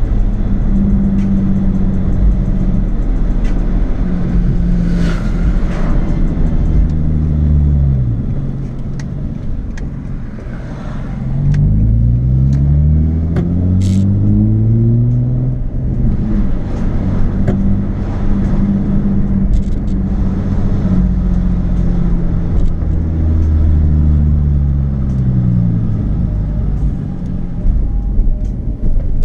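Nissan 350Z's 3.5-litre V6 through a Japspeed aftermarket exhaust while driving. It holds a steady note, drops in pitch and goes quieter about eight seconds in, then climbs steeply in pitch as the car accelerates, holds steady again, and falls off once more near the end.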